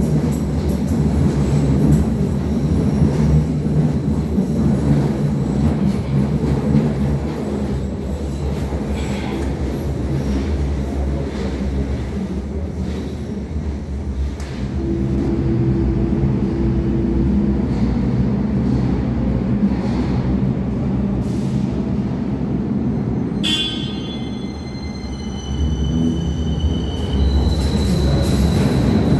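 A Berlin U-Bahn type JK train running on line U2, with a steady low rumble and hum. From about two-thirds of the way in, the wheels squeal on the rails in several high tones for a few seconds.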